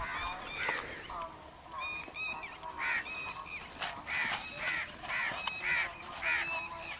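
Birds giving short, harsh, repeated calls, about two a second, from more than one bird.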